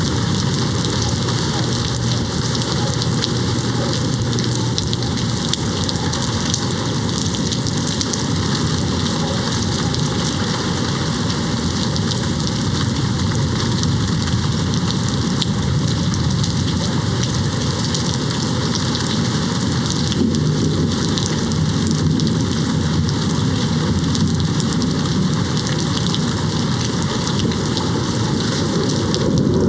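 Steady heavy rain hitting a window, a dense patter of drops. A low rumble of distant thunder grows in the second half.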